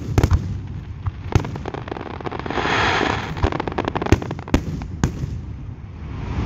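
Aerial fireworks shells bursting, with sharp bangs every half second to second over a low rumble. About halfway through comes a swell of hissing, then a quick flurry of crackles.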